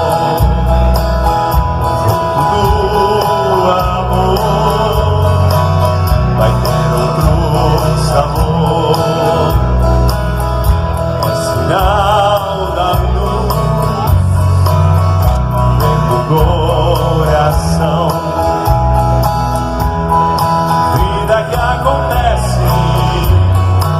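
Live band music from a loudspeaker system, with a heavy bass beat and a wavering melody line over it.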